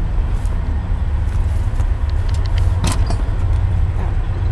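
Steady low rumble of a train going by, with a few light knocks and clicks on top, the loudest about three seconds in.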